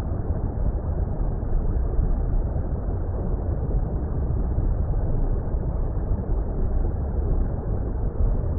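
Steady, deep rumble of water noise, muffled as if heard underwater, with no separate splashes or events.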